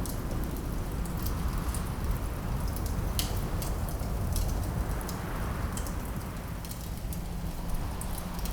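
Wood fire crackling in a fireplace, with irregular sharp pops and snaps over a steady low rumble of wind.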